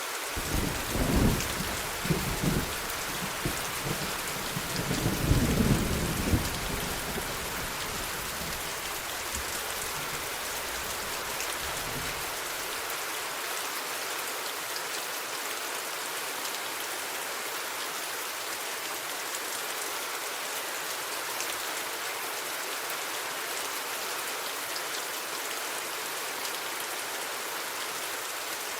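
Steady rain falling, with a clap of thunder rumbling low in the first few seconds, loudest about five to six seconds in, and dying away by about twelve seconds in.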